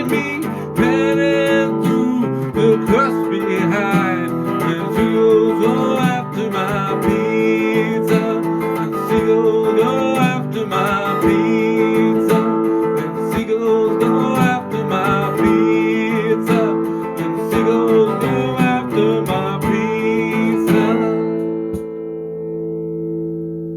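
Guitar instrumental break: a lead line picked over strummed chords, with some notes bent or slid in pitch. About three seconds before the end it stops on a chord that rings out and fades.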